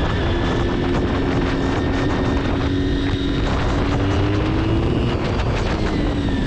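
Motorcycle engine running at road speed under heavy wind noise on the camera's microphone. The engine note climbs slowly, breaks off about five seconds in and picks up again a little lower.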